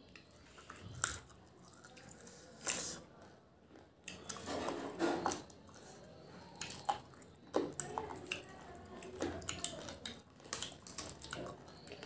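Wet chewing and biting of bone-in desi chicken eaten by hand, close to the microphone: scattered lip smacks, sucking and small clicks at irregular intervals.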